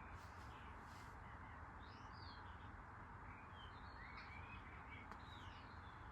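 Faint bird chirps, short rising and falling notes in clusters, over a quiet steady low hum and hiss.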